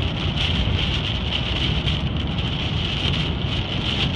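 Steady hiss of heavy thunderstorm rain and wind on a car, with a low rumble from the vehicle and the wet road underneath.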